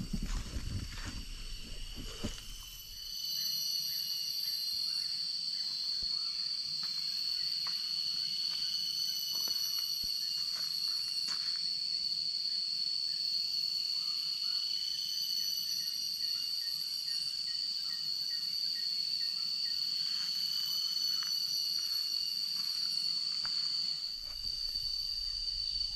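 Forest insects droning: a steady high-pitched buzz sets in about three seconds in and holds to the end, over a few faint clicks.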